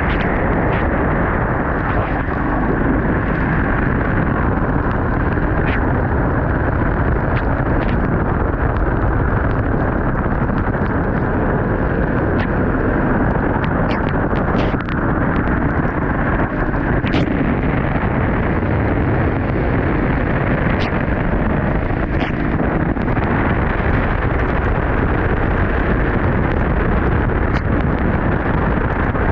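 Off-road 4x4 vehicle on the move: a steady, loud rumble of engine and running gear, mixed with wind buffeting the microphone, and a few sharp knocks scattered through.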